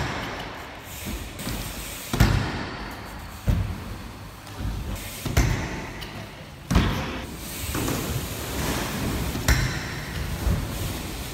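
Repeated thumps and slams of a BMX bike hitting and landing on an obstacle while a trick is attempted over and over, about seven hard knocks one to three seconds apart.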